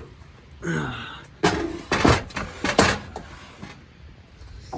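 A short squeak, then a handful of sharp clunks and knocks as a slide-out camp stovetop is pulled out and lifted from a truck bed.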